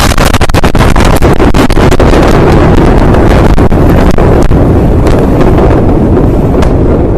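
Blast of the Beirut port explosion reaching the microphone: a continuous, very loud rushing rumble that overloads the recording, with many sharp cracks through it, easing slightly near the end.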